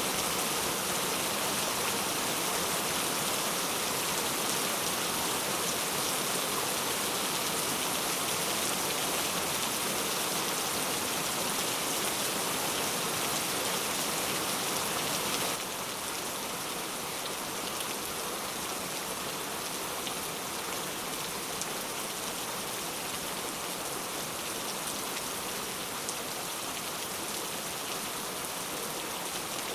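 Heavy rain falling steadily, an even hiss of many drops. About halfway through it drops suddenly to a slightly quieter level and carries on unchanged.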